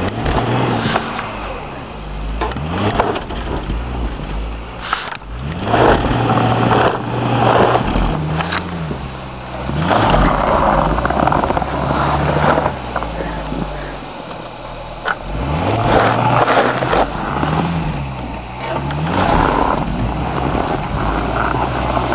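Car engine revving up and dropping back about half a dozen times, with loud surges of tyres spinning in snow: the car is stuck in deep snow and can't get moving.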